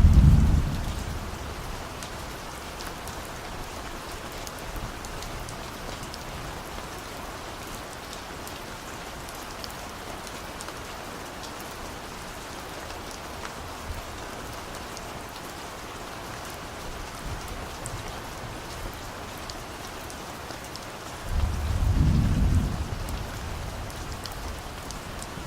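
Steady rain falling, with low rumbles of distant thunder: one right at the start that fades within a couple of seconds, and a longer roll near the end.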